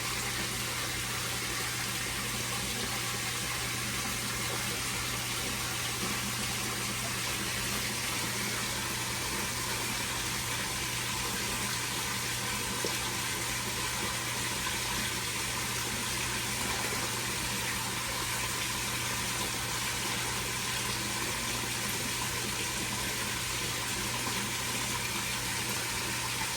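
Koi pond filter water running and splashing steadily, over a steady low hum.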